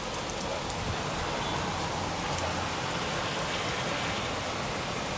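Steady rain falling in a rainstorm, an even hiss with no break.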